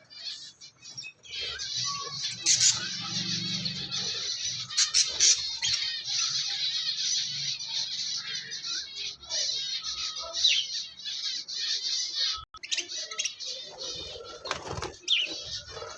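Many small cage birds chirping and calling at once in a dense, high-pitched chatter, with wing flapping and a few sharp knocks. The chatter drops out briefly about three-quarters of the way through and then resumes.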